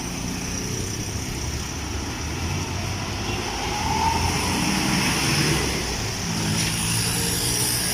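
Steady vehicle and traffic noise, with engines running.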